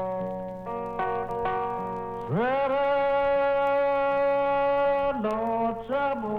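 Acoustic blues record: fingerpicked guitar phrases, then about two seconds in a long note slides up into pitch and is held for nearly three seconds before the picking resumes.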